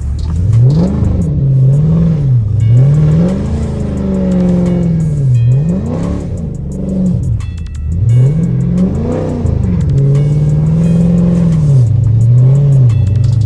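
Dodge Charger's engine revving hard and easing off over and over while it slides the car through a snowy intersection. The pitch climbs and drops every couple of seconds, then holds steadier near the end.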